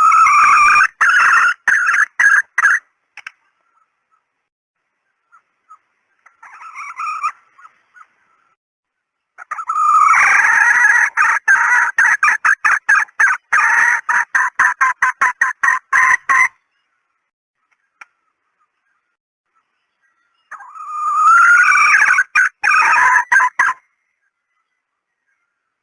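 Female red junglefowl (hen) calling, the lure call hunters play to draw in males. It comes in four bouts of rapid clucking cackles, each opening on a longer note; the longest bout runs about seven seconds near the middle.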